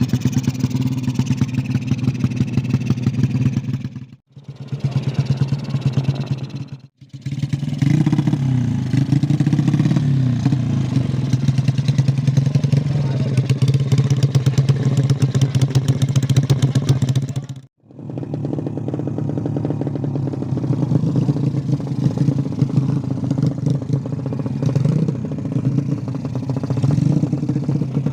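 Small engine running steadily with a fast, even firing pulse, rising and falling briefly a few times. The sound breaks off abruptly three times for a moment.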